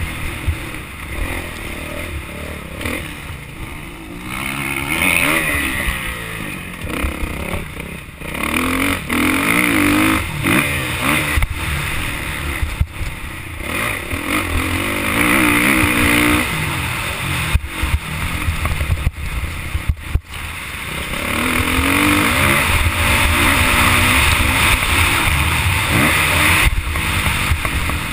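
Motocross bike engine under way, its pitch climbing and falling again and again as the throttle is opened and shut, with a hiss over it and a few sharp breaks.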